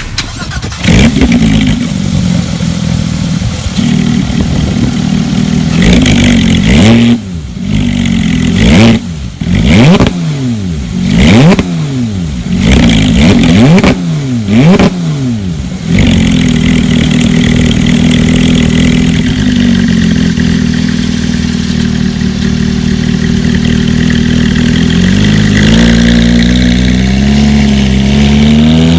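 Porsche 911 GT3's 3.8-litre flat-six through a Sharkwerks exhaust, running steadily, then revved about six times in quick succession, each rev rising and dropping sharply. After that it holds a louder steady note, and the pitch climbs again near the end.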